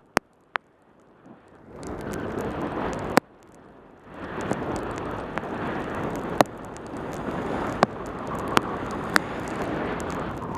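Wind rushing over a helmet camera's microphone on a fast bicycle descent in heavy rain, with scattered sharp clicks. The rush drops away almost completely near the start and again briefly about three seconds in, then returns.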